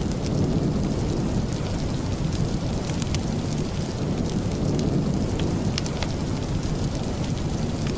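Steady rain, a dense low wash of noise, with scattered sharp clicks and pops throughout.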